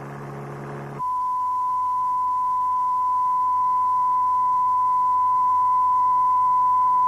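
A pure, steady 1,000-hertz test tone starts about a second in and holds without a break, a reference tone for learning to judge the frequency of a noise by ear. Before it there is a brief low hum.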